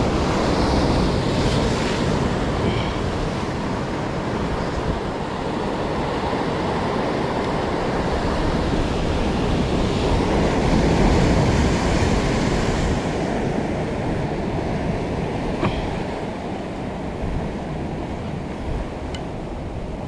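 Ocean surf breaking and washing against a concrete tetrapod breakwater, swelling to its loudest about halfway through and then easing off, with wind buffeting the microphone.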